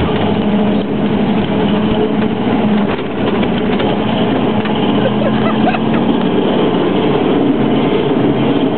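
Jeep engine running as it drives, heard from inside the cab, holding a steady pitch apart from a brief dip about three seconds in.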